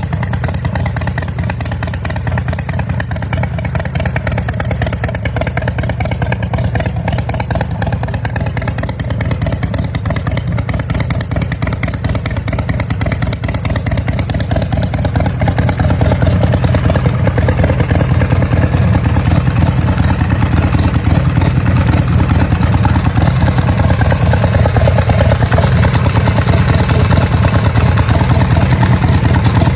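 Custom Pro Street chopper's large V-twin engine running at a steady loud rumble, getting louder about halfway through and holding there.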